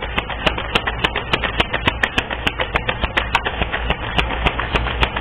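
Tarot cards being shuffled by hand: a quick, irregular run of sharp clicks and slaps, several a second, over a steady low hum.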